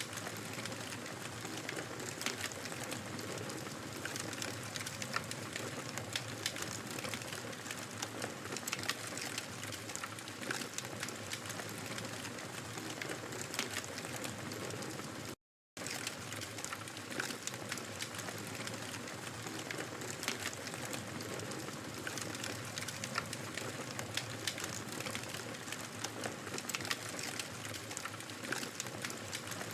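Wood fire burning in a fireplace with a steady hiss and constant small crackles and pops. The sound cuts out completely for a moment about halfway through, then carries on.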